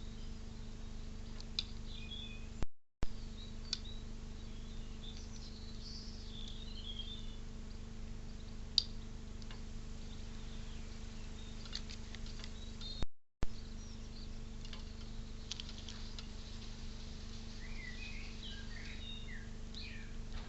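Small birds chirping in short twittering calls, strongest about six seconds in and again near the end, with scattered light ticks and taps over a steady low electrical hum. The sound cuts out completely twice, briefly, with a pop at each cut.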